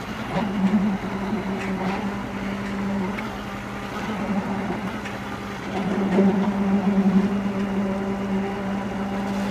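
A machine engine running steadily at a constant hum, with irregular clattering over it that grows louder about six seconds in.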